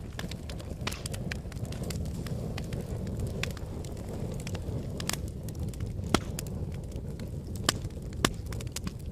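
Wood fire burning in a fireplace: a steady low rumble of flames with frequent sharp crackles and pops, three louder pops in the last few seconds.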